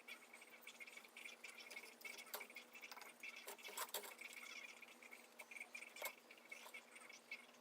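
Near silence with faint, scattered small clicks and light scratching: quiet handling sounds from work on the brake.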